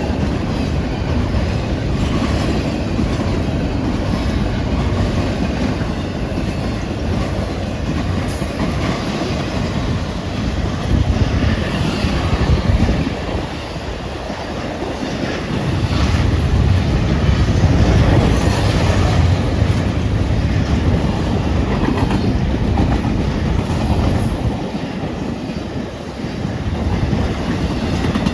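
A long intermodal freight train rolling past at speed: a steady, loud rumble of wheels on rail with clickety-clack from the wheels crossing rail joints, swelling and easing slightly as the cars go by.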